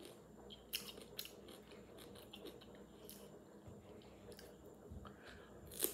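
A person chewing food, with a few short crisp crunches scattered through, the sharpest one near the end.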